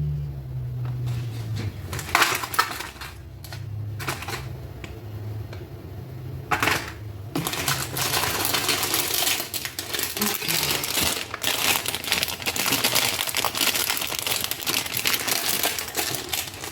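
Kitchen handling noise: a few clicks and knocks over a low hum in the first seven seconds, then continuous rustling and crinkling of plastic packaging.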